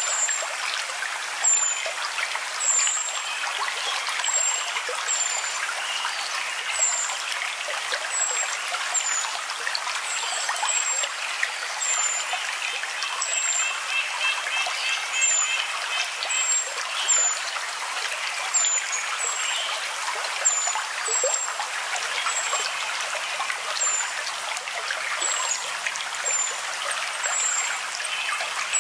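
Steady running water of a stream, with short high chirps repeating about once a second and a brief faint trill about halfway through.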